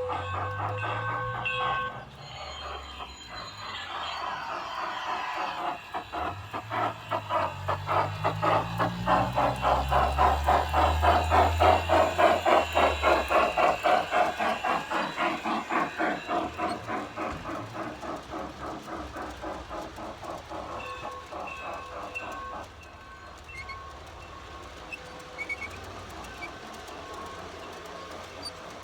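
Phoenix Sound steam sound system in a G-scale USA Trains Santa Fe Hudson model locomotive, playing through its onboard speaker. A chime whistle sounds and ends about two seconds in. Rapid, even steam chuffing then grows louder as the engine comes close, peaks and fades away, and a short whistle sounds near the end of the chuffing, followed by faint clicking of the train on the track.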